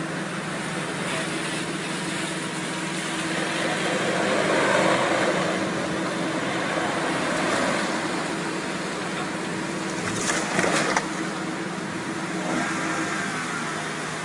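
Steady noise of a car on the road, with a brief cluster of sharp knocks about ten seconds in.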